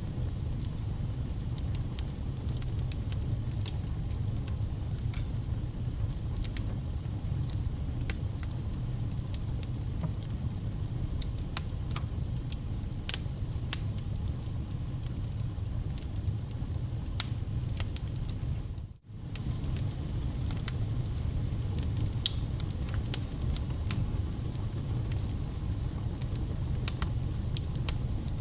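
Wood fire burning: a steady low rumble of flames with frequent sharp crackles and pops from the burning logs. The sound briefly drops out about two-thirds of the way through, then fades back in.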